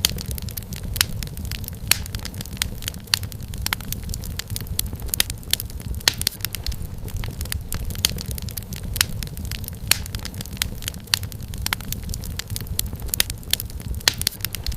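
Wood fire crackling in a fireplace: a steady low rumble of flames with many sharp, irregular pops and snaps of burning firewood.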